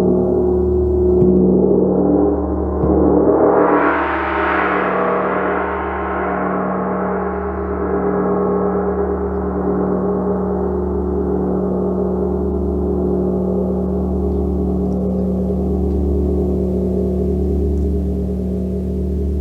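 A large gong ringing in a sustained, shimmering wash over a deep pulsing drone. About four seconds in it swells and brightens, then the upper tones slowly die away while the low hum keeps going.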